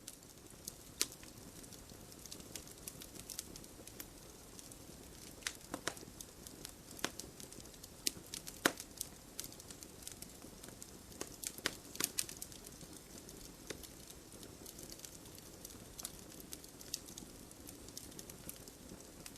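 Wood campfire burning, with irregular sharp crackles and pops over a soft steady rush of flame.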